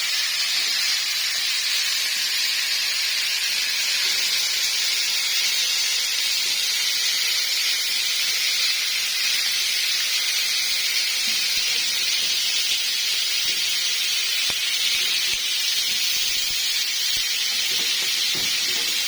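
Chicken pieces sizzling in a hot pan, a steady hiss throughout.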